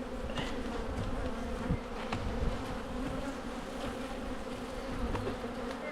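Honey bees buzzing in a steady hum around an open hive, with a few faint clicks mixed in.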